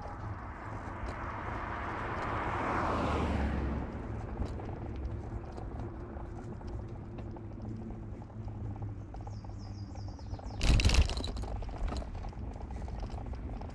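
Steady low rumble of road and engine noise while driving. A whoosh builds and falls away about three seconds in, and there is a short, loud knock about eleven seconds in.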